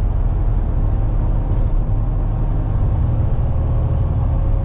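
Steady low rumble of the plow truck driving on the highway: engine and tyre noise heard from inside the cab.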